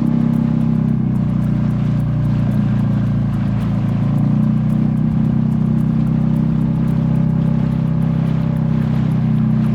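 Boat engine running steadily under way: a loud, even, low hum that holds at one pitch throughout.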